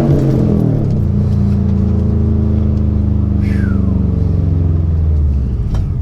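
2019 Subaru WRX STI's turbocharged 2.5-litre flat-four running through a Remark cat-back exhaust with the mufflers deleted. It comes down off a rev at the start, holds a steady note for about four seconds, then drops again near the end. A brief falling whistle comes about halfway through.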